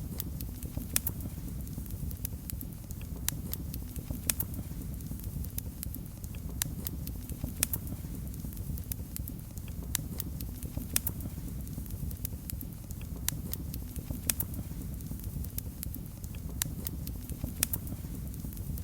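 Wood fire in a fireplace crackling: a steady low rumble of the flames with irregular sharp pops and snaps, a few louder ones every second or so.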